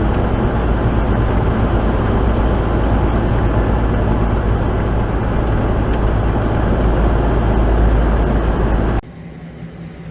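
Steady, loud road and engine noise of a tractor-trailer underway, with a heavy low rumble. It cuts off abruptly near the end, leaving a much quieter hum.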